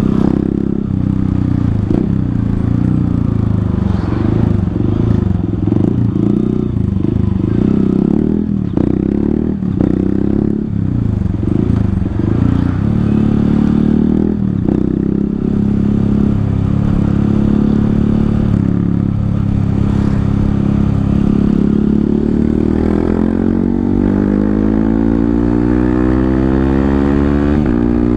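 Honda CRF150L's single-cylinder four-stroke engine running through a Tridente F19 full-system exhaust with its honeycomb baffle removed, heard from the saddle while riding. The note rises and drops again and again with throttle and gear changes in the first half, then runs steadily before a long rising rev near the end.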